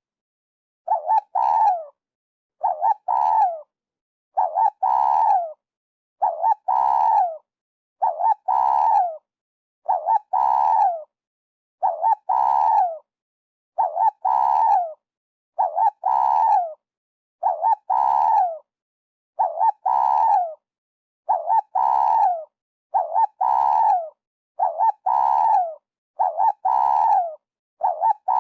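Spotted dove cooing, the same phrase repeated at a very even pace of about one every two seconds. Each phrase is two or three short coos followed by a longer coo that falls in pitch. It is a dove call played as a lure for trapping doves.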